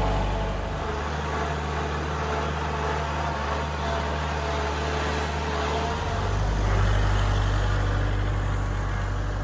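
Kubota tractor's diesel engine running steadily. Its note shifts about a second in and again about six seconds in, getting a little louder near seven seconds.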